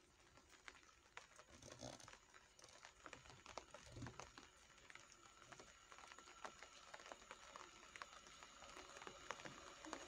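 Near silence with faint, irregular pattering ticks of raindrops. Near the end a faint steady hum sets in from a distant approaching diesel multiple unit.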